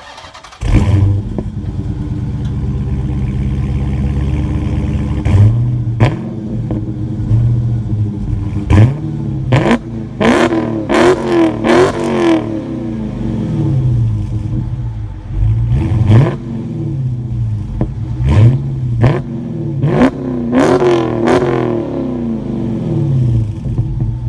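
Dodge Challenger Scat Pack's 392 HEMI V8 through its stock exhaust: it fires up about a second in and settles to a steady idle. It is then blipped repeatedly, in quick single revs and a cluster of revs, each falling back to idle.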